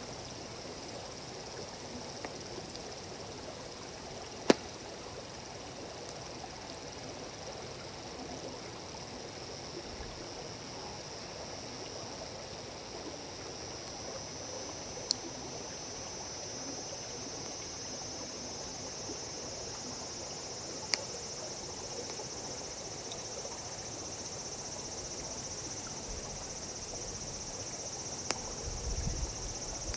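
Wood campfire with a few sharp pops, over a steady high insect chorus and the low hiss of nearby running water.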